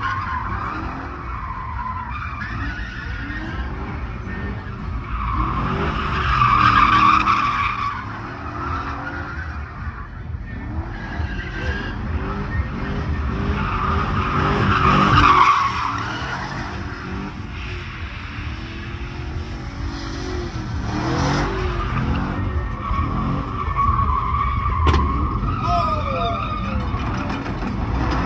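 Pickup truck doing a burnout: the engine revs up and down repeatedly while the spinning rear tires squeal and screech, swelling loudest several times.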